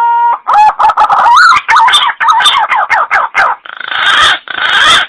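Green pigeon (punai) call played as a hunting lure. A whistled note that has risen and holds steady ends soon after the start, followed by a run of quick, wavering whistled notes, then three harsher, grating notes near the end.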